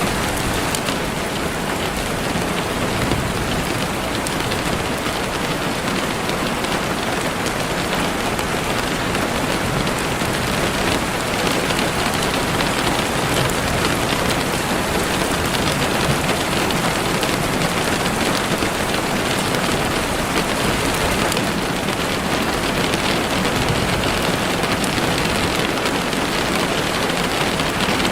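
Heavy rain falling steadily on leaves and the forest floor.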